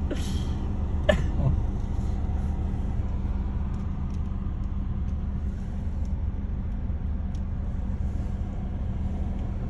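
Steady low hum of a car's engine idling, heard from inside the cabin. A brief sharp sound comes about a second in.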